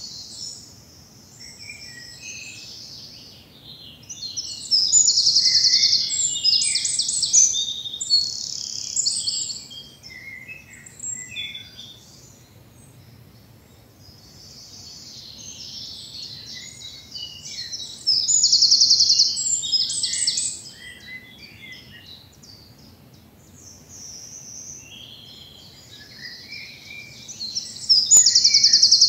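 Woodland birds singing. One loud songbird repeats a high, fast song phrase of rapidly repeated notes three times, each a few seconds long, about every nine or ten seconds, with fainter chirps from other birds between.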